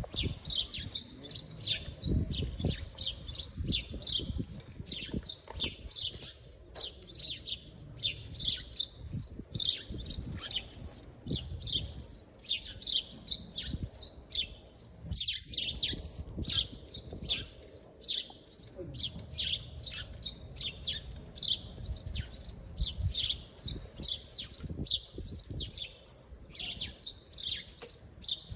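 Small birds chirping continuously in short, high chirps, a few a second, over a low uneven rumble.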